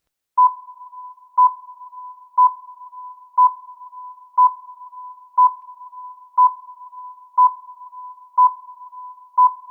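Quiz countdown-timer sound effect: a single-pitched beep about once a second, ten in all, each one ringing on into the next.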